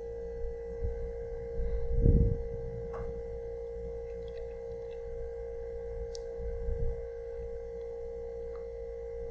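A steady pure tone, with fainter higher tones held above it, like a sustained meditation drone. A low rumble comes about two seconds in and another near seven seconds.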